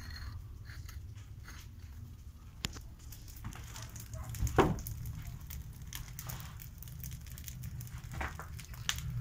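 Wood fire crackling in a newly built masonry fireplace and stove on its first firing, over a steady low rumble of the draught, with one sharper knock about four and a half seconds in.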